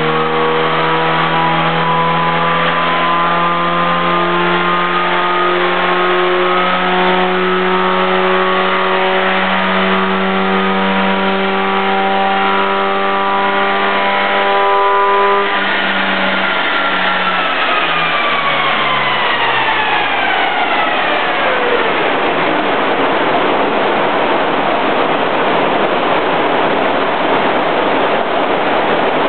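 1984 Honda Accord's four-cylinder engine with a Weber 32/36 carburettor conversion, at full throttle in third gear on a chassis dyno: its pitch climbs slowly for about fifteen seconds. The throttle is then lifted and the pitch falls away over the next several seconds, leaving a steady loud rushing noise.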